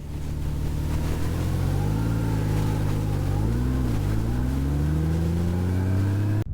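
Honda Gold Wing GL1800's flat-six engine running under way, its note steady, dipping briefly about three and a half seconds in, then climbing steadily as the bike accelerates, before cutting off abruptly at the end.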